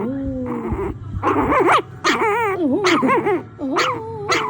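A dog grumbling and whining in a run of short, wavering calls that bend up and down in pitch, the complaining noises of a dog disturbed by touch while trying to sleep.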